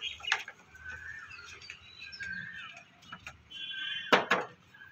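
Small birds chirping repeatedly in short calls, with a few sharp knocks or scrapes on a concrete roof; the loudest two come about four seconds in.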